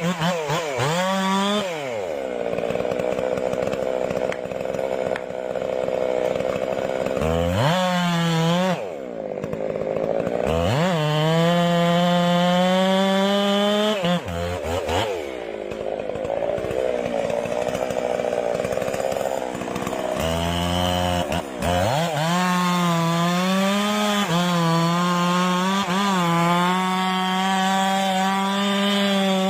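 Two-stroke chainsaw running at high revs as it cuts wood. Its engine note drops and climbs back up several times.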